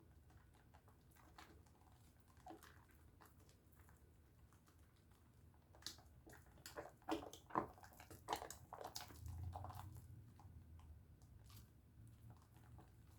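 Bar of Dove soap being lathered in wet hands: faint, irregular small wet clicks and squishes, most of them around the middle.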